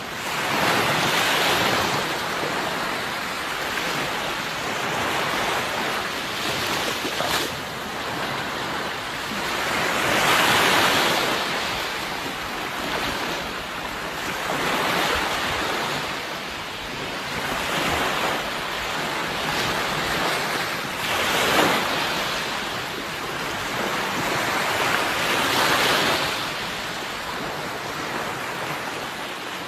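Sea waves breaking and washing on a shore. The surf swells and ebbs, with about five louder surges a few seconds apart.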